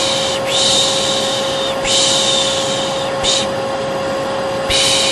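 Vacuum cleaner running steadily with a constant hum. Over it a voice repeats a soothing 'shh' shush, each about a second long with short breaks between, the piş piş sound used to calm a baby.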